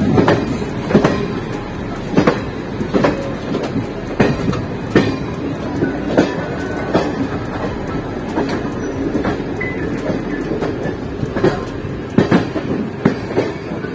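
ICF passenger coach rolling along on the track. Steady wheel rumble with sharp clacks from the rail joints, roughly one a second.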